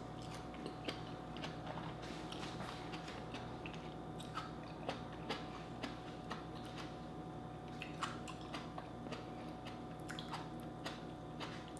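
Close-up chewing of a mouthful of fresh tomato, with irregular wet clicks and smacks of the mouth. A faint steady hum runs underneath.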